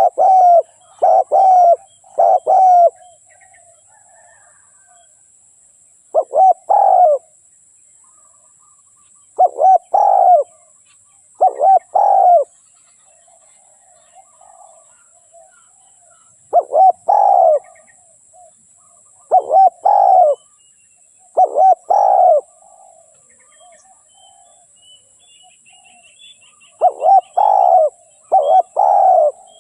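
Spotted dove cooing: short phrases of a few coos at a time, repeated in bunches with pauses of a few seconds between them. Faint chirps of smaller birds and a steady faint high hiss sit underneath.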